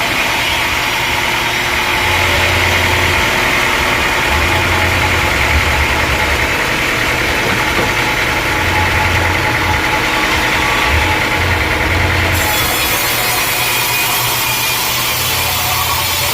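Sawmill saw cutting a teak log: a steady cutting noise over the low hum of the mill's machinery, which comes and goes.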